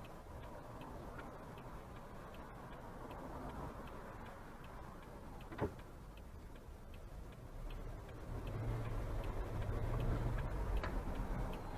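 A car's turn-signal indicator ticking steadily inside the cabin, about two to three clicks a second, over a low engine hum that swells near the end. One sharper click stands out about halfway through.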